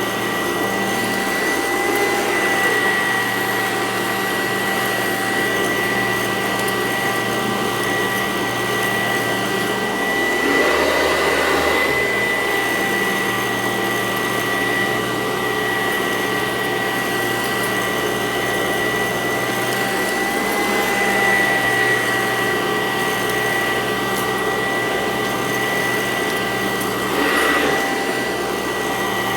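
Sanitaire SC886 upright vacuum cleaner running on carpet, a steady motor whine with brief swells in loudness a few times.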